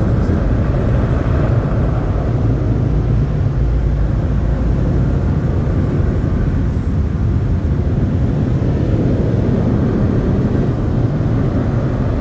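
Car wash air dryer blowers running, a loud steady rush of blown air heard from inside the car as it passes through the tunnel's drying stage.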